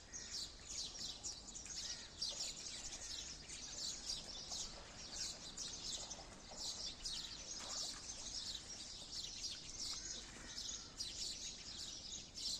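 Birds chirping: a dense, continuous run of short high chirps.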